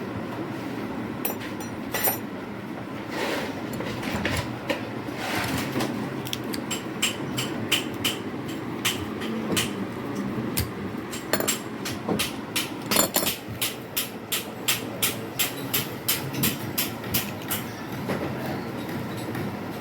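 Repeated sharp hammer taps on a ceiling fan's metal body while it is being opened: a few scattered knocks at first, then a steady run of about two to three taps a second through most of the second half.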